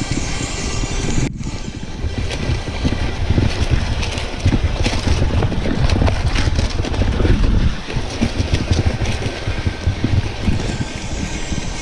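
Wind rushing over the microphone while riding along a trail, with a steady low rumble of the ride. The noise breaks off briefly about a second in, then carries on.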